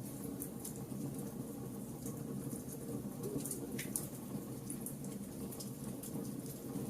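Wood fire burning: a steady low rush from the flames with scattered sharp crackles and pops from the wood, one stronger pop about four seconds in.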